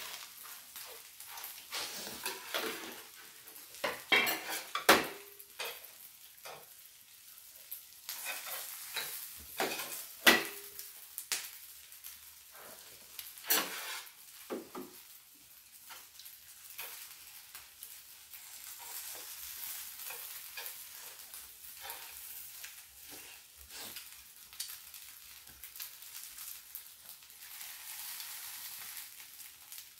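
Green onion pancake (pajeon) frying on an electric griddle with a steady sizzle, while chopsticks and a wooden spatula click and scrape against the griddle and plates now and then, the sharpest clicks about five, ten and fourteen seconds in.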